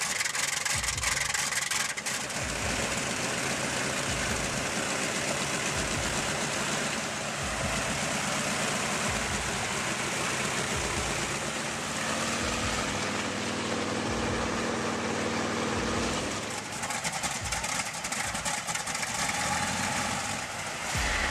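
A 14-cylinder aircraft piston engine running steadily. For a few seconds past the middle a humming tone rises out of the engine noise.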